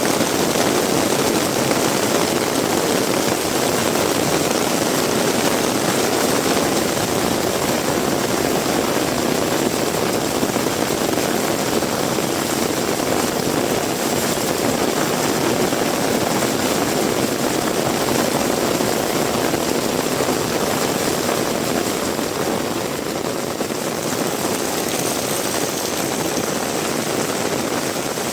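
Heavy rain pouring down in a dense, steady hiss with a low, rumbling body.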